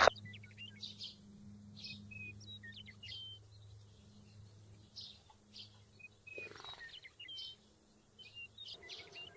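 Small birds chirping in short, scattered calls, over a faint low hum that fades out about seven seconds in.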